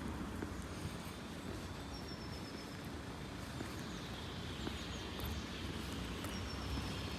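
Street ambience: a steady low hum of distant traffic, with a few short, high bird chirps about two seconds in and again near the end.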